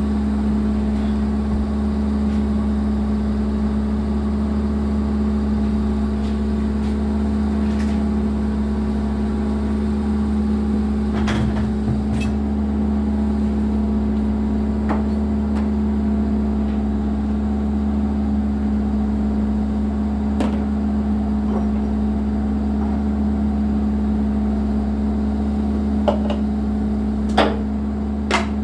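John Deere 120 excavator's diesel engine running at a steady speed, with a few sharp metallic knocks, two about eleven seconds in and three near the end.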